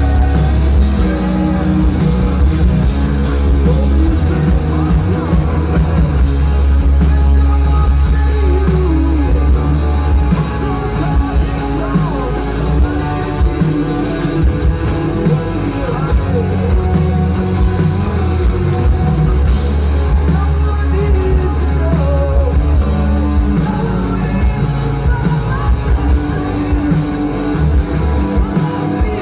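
Rock band playing loud live, with a heavy bass and drums under a dense, continuous wall of guitar, and singing.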